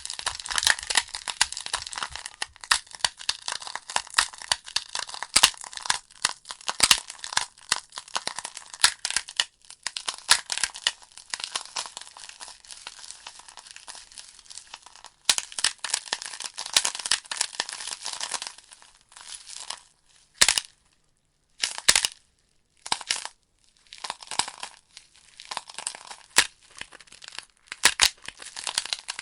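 Burning wood logs in a fireplace crackling and popping: a dense run of sharp snaps. About two-thirds through it thins to a few isolated loud pops with short near-silent gaps, then the crackling picks up again.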